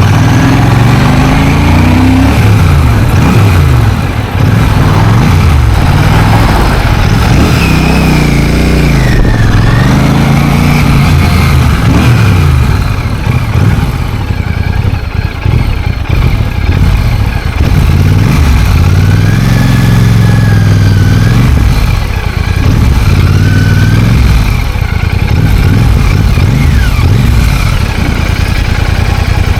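Royal Enfield motorcycle engine running, its pitch rising and falling over and over as it speeds up and slows down.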